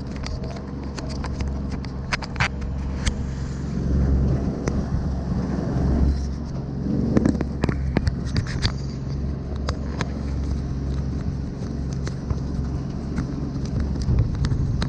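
A kayak's motor running steadily with a low hum, while the hull knocks and slaps irregularly in rough, choppy water.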